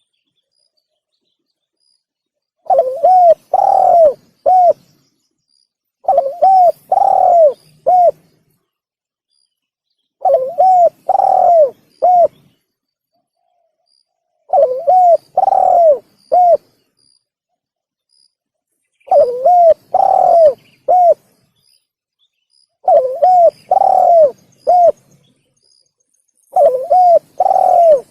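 Spotted dove (tekukur) cooing, played as a hunter's lure call: short phrases of three to four coos, repeated about every four seconds with silence between.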